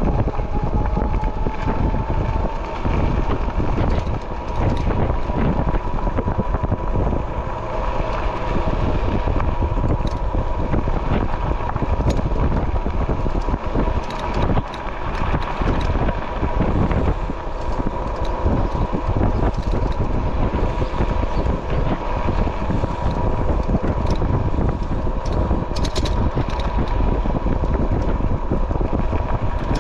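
Wind buffeting the microphone of a fast-moving e-bike, with the electric motor's steady whine that rises a little in the first seconds and then holds level.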